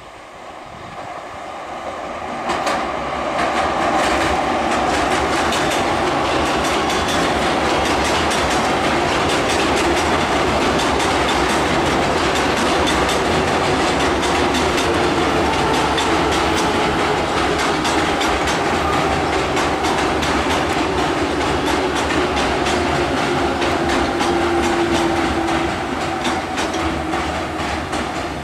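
ICF Medha electric multiple unit train running across an open steel girder rail bridge: wheels clattering over the rails with a loud rumble. The sound builds over the first few seconds as the train comes onto the bridge, then holds steady, with faint tones underneath that slide slowly lower.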